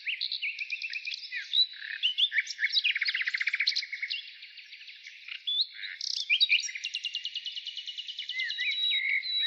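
Songbirds singing: a dense, unbroken run of varied chirps, rapid trills and short whistled glides.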